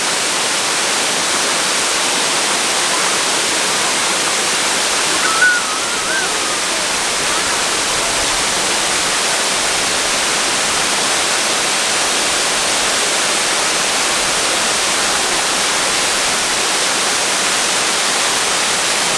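Waterfall rushing steadily as a constant loud roar of falling water. A short, wavering high call, likely a voice, cuts through briefly about five and a half seconds in.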